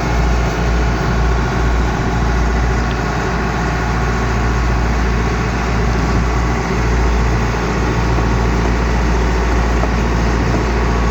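Heavy diesel engine of farm machinery running steadily at a constant speed, with a deep low rumble.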